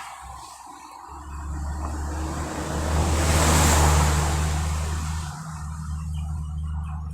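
Road traffic: a motor vehicle passes close by, loudest about halfway through, over a steady low engine hum.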